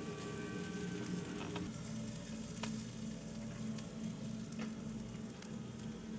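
Food sizzling in hot fat, with a few sharp pops and crackles.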